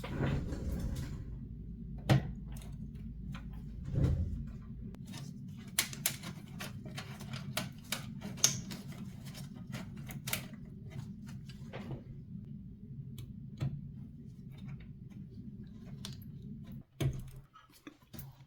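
Scattered sharp clicks and taps of PC hardware being handled and fitted, over a steady low hum that cuts off abruptly near the end.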